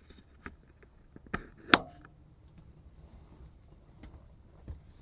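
Handling noises: a few light clicks and knocks, one sharp clack a little under two seconds in, and a softer thump near the end.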